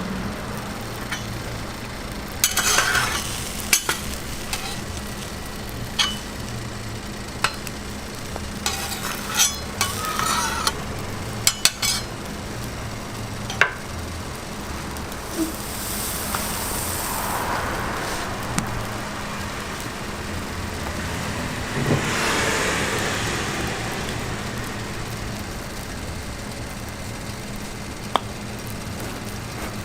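Street-food cooking on a griddle or pan: sizzling, with sharp utensil clicks and knocks and short scraping strokes, over a steady low hum of street traffic.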